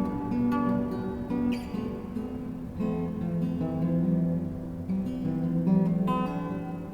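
Acoustic guitar strummed, its chords changing every second or so and ringing on between strokes.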